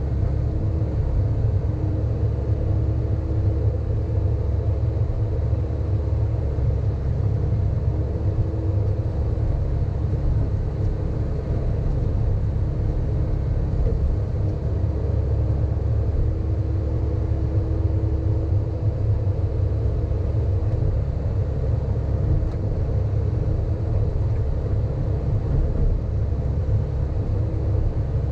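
Sany hydraulic excavator's diesel engine running steadily under work, a continuous low rumble with a faint tone that comes and goes.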